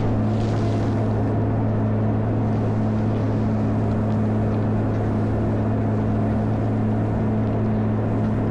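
Caterpillar 140M motor grader's diesel engine running steadily at an even speed, a constant low drone with no change in pitch.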